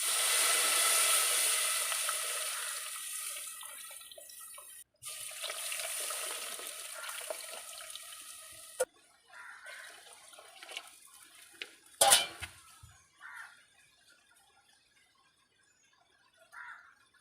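Running water, a steady hiss that breaks off briefly about five seconds in and stops abruptly about nine seconds in. Then come a few small clicks and one sharp knock about twelve seconds in.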